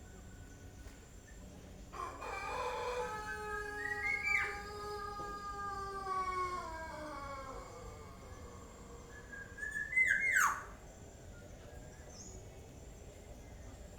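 Young black-naped oriole calling. A long call slowly falls in pitch from about two seconds in, and a short sharp whistle comes near the middle. The loudest call, a sharp steeply falling sweep, comes at about ten seconds.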